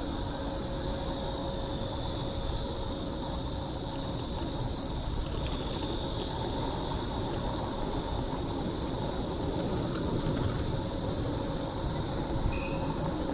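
Steady rumble and high hiss of riding a bicycle: wind on the microphone and tyre noise, with a faint steady hum.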